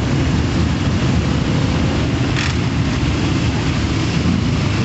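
Motorcycle engines running, a steady low rumble, with a brief higher-pitched blip about halfway through.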